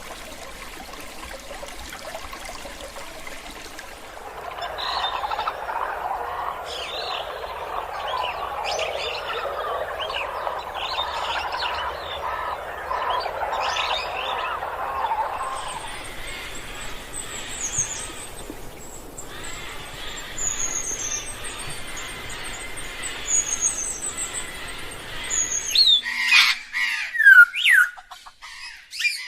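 Wild birds calling and singing: a steady rushing hiss first, then a dense chorus of chattering calls, then thin high chirps, and loud sweeping whistles near the end.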